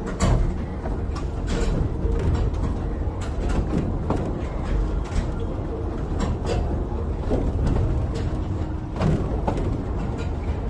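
Miniature tourist train running along its track: a steady low rumble with frequent clicks and rattles from the wheels and carriages.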